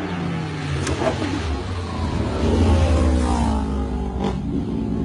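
A motor vehicle engine revving: its pitch falls, then climbs and is loudest around the middle. Two sharp clicks come about a second in and near the end.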